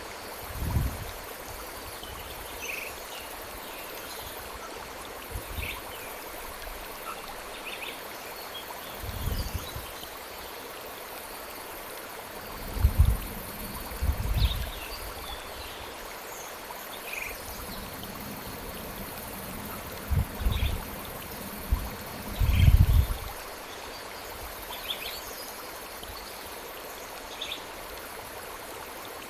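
Steady rush of a flowing stream, with short high bird chirps scattered throughout. Several brief low rumbles come and go, the loudest about halfway through and again a few seconds later.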